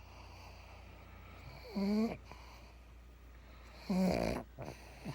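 A sleeping pug snoring: two short, pitched snores about two seconds apart.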